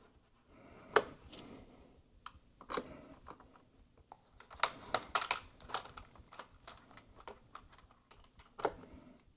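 Irregular small clicks and taps of hands and tools working on parts inside an opened iMac. The loudest clicks come about a second in, in a quick cluster around the middle, and once near the end.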